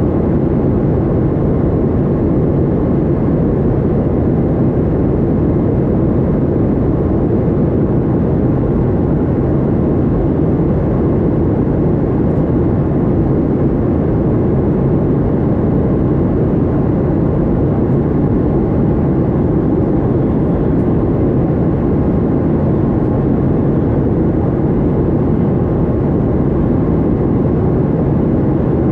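Boeing 737-800 with CFM56-7B jet engines, a steady low rushing drone of engine and airflow noise that holds even throughout.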